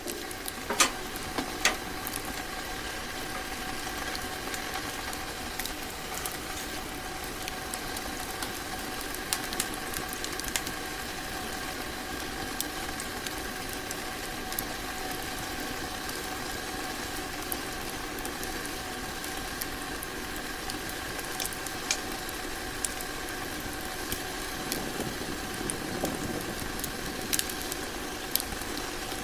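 Something cooking or heating on a stove: a steady hiss with a faint steady hum, broken by scattered sharp crackles and clicks.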